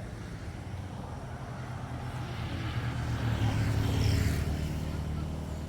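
A motor vehicle engine passing by. Its steady hum grows louder to a peak about four seconds in, then fades away.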